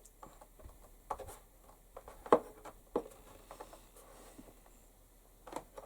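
Light, scattered clicks, taps and scrapes of hand-working leather with a knife and tools on a bench, the sharpest knock a little past two seconds in.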